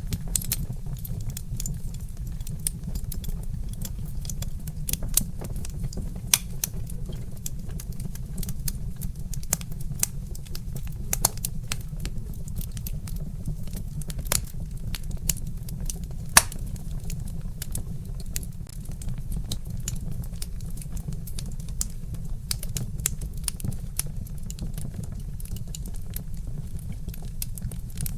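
Wood fire in a fireplace crackling, with irregular sharp pops over a steady low rumble, a few pops louder than the rest.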